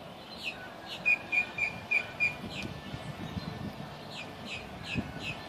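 Songbirds calling: a quick run of five short, even-pitched high notes about a second in, among repeated short downslurred chirps.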